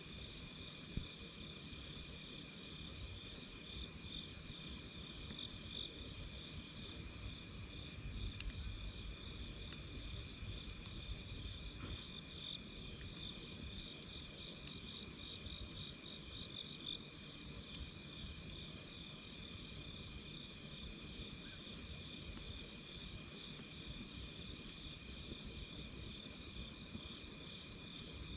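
Crickets chirping in a steady, pulsing chorus over the low crackle of a wood campfire, with a few sharp pops from the fire.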